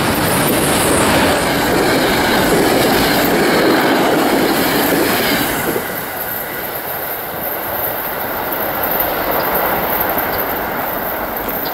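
New Jersey Transit diesel locomotive and passenger train passing close by at track speed, with loud engine and wheel-on-rail noise. The sound drops off suddenly about six seconds in as the locomotive gets past, and lower rolling noise carries on after.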